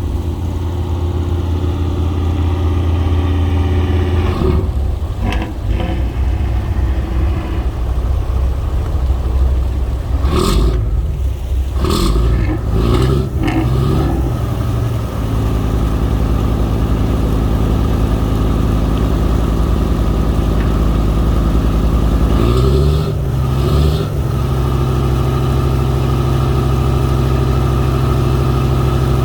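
Boat engine running close by, its speed changing a few times as the throttle is worked and settling into a steady, slightly higher run in the last few seconds. A couple of short knocks come about ten to twelve seconds in.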